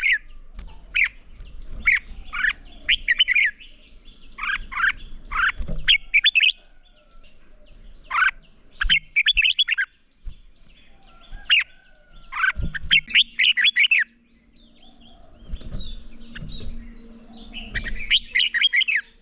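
Red-whiskered bulbuls giving their contest song: bursts of fast, chattering notes in short phrases, with brief pauses between them.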